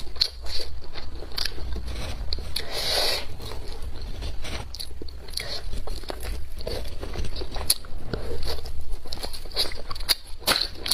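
A person eating close to the microphone: wet chewing and biting with many small clicks and crunches, and a short noisy rush about three seconds in, over a steady low hum.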